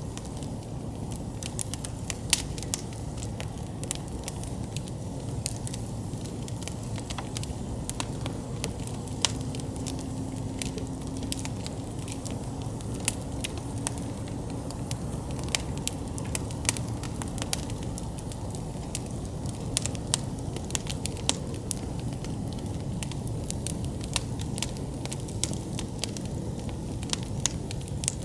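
Wood campfire burning, with a steady low rush of flame and frequent irregular sharp crackles and pops from the burning wood.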